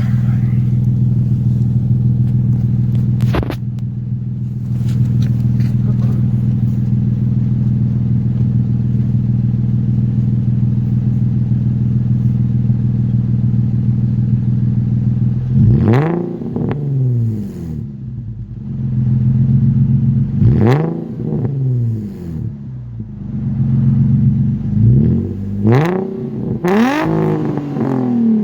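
2006 Infiniti G35 sedan's 3.5-litre V6, warmed up, idling steadily through a newly fitted ISR dual blast pipe exhaust. From about halfway on it is blipped several times, each rev rising and falling quickly, with a cluster of quick revs near the end.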